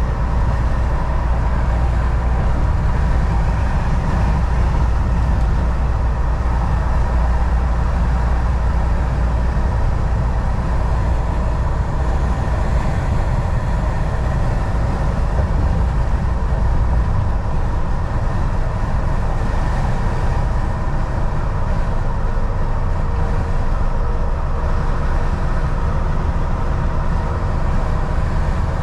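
Volvo VNL semi truck cruising at highway speed: a steady drone of engine and road noise, with a faint constant whine over it. The deepest rumble eases a little more than halfway through.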